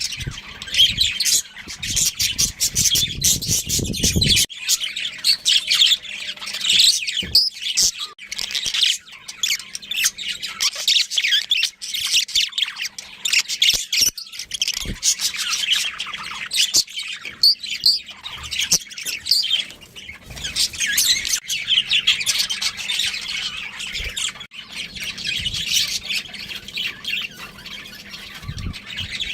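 Budgerigars chirping and chattering, with a continuous stream of rapid high squawks and tweets. A low rumble runs under the calls for the first few seconds.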